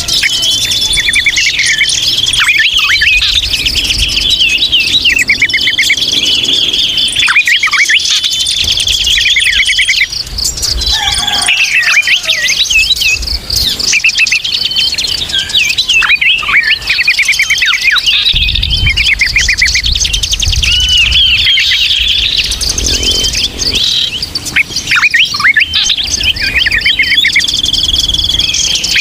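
A busy chorus of many small songbirds calling at once: overlapping chirps and rapid chattering trills. This is a "ribut" (noisy) bird-lure recording of the kind played to draw wild birds in.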